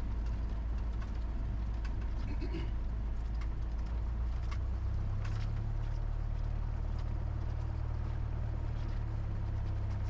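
Cessna 172's four-cylinder piston engine running at low power while the plane rolls out after landing, a steady low drone whose pitch shifts slightly about halfway through.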